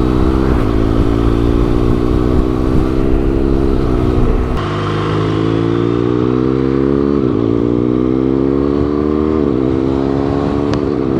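Boxer-twin engine of a 2017 BMW R1200GS with an SC Project exhaust, accelerating through the gears: the engine note climbs and drops back at each of several upshifts. Heavy wind rumble on the microphone in the first few seconds.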